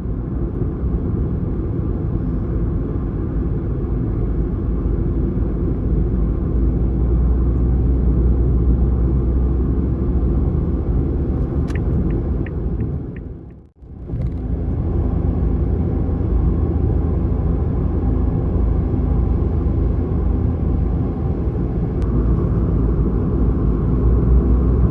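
Steady low road and engine rumble inside a Suzuki Lapin kei car while driving. The sound drops out briefly about halfway and then resumes unchanged.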